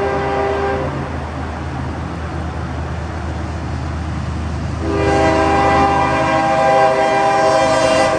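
Horn of a freight train's lead diesel locomotive, a GE ES44DC, sounding a chord of several steady tones. One blast cuts off less than a second in, and a longer, louder blast starts about five seconds in. The low steady running of the diesel locomotives sounds underneath.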